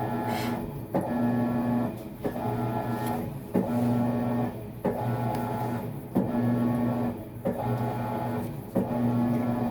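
Maytag MVWX655DW1 top-load washer agitating during a tub-clean cycle. The drive motor hums in short strokes about every second and a quarter, and a clunk follows each stroke.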